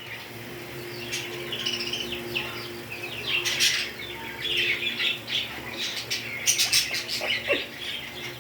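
Pet parrots chirping and squawking in many quick, high calls, over a steady low hum.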